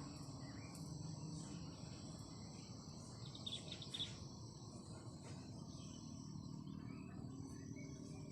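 Crickets and other insects chirring steadily in a high-pitched chorus over a low background hiss, with a short run of quick chirps about three and a half seconds in.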